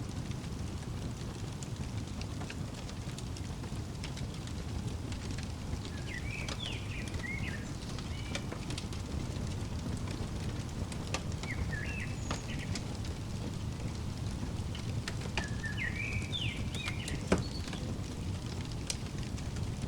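Wood fire crackling, with a steady low rumble, scattered snaps and one loud pop about 17 seconds in. A songbird sings three short warbling phrases over it.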